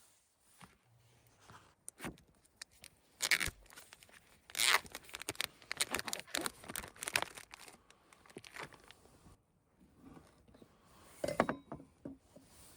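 Handling noise: irregular bursts of crinkling and tearing with sharp clicks, heaviest through the middle and again near the end.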